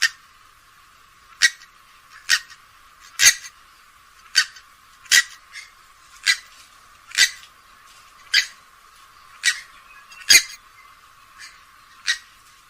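Grey-headed swamphen giving a series of short, sharp calls, about one a second, a dozen in all, a few of them weaker.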